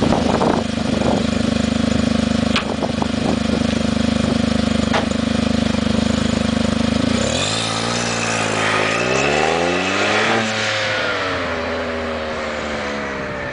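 A smart car's small turbocharged three-cylinder engine running through an aftermarket XSP exhaust with no catalytic converter. It holds a steady note for about seven seconds, then the revs climb for about three seconds and fall back to a steady note.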